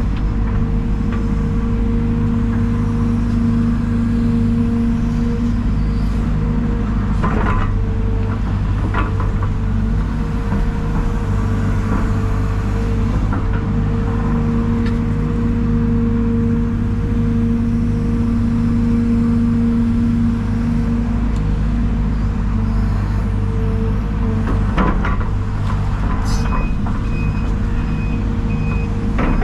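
Hydraulic excavator's diesel engine running steadily while digging, its note strengthening and easing as the hydraulics load it, with a few sharp knocks along the way.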